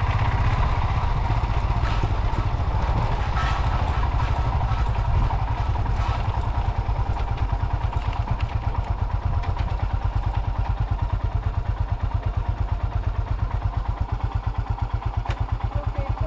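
Single-cylinder Royal Enfield motorcycle engine running at low revs with a steady thumping beat. The beat becomes more distinct and even about halfway through.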